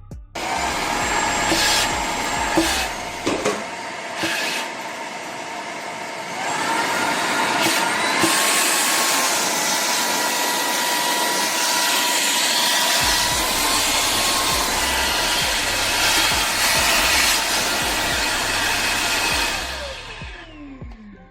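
Tineco A30S cordless stick vacuum cleaner running: a rushing of air with a whining motor tone. It gets louder about six seconds in and winds down near the end with a falling whine.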